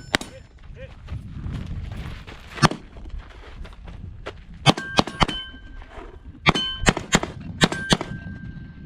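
Pistol shots, about ten in irregular clusters, most of them in the second half, several followed by the ringing ping of a struck steel target.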